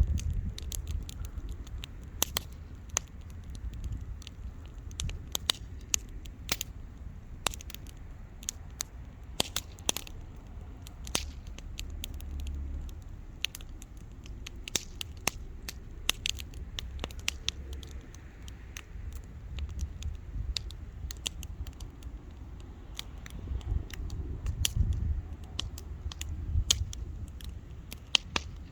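Wood campfire crackling: irregular sharp pops and snaps from the burning wood, several a second, over a low rumble.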